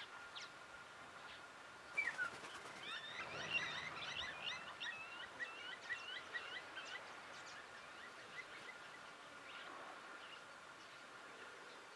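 A bird calling a fast, chattering run of short curving notes, starting about two seconds in, lasting around five seconds and thinning out toward the end. A faint steady high tone runs underneath.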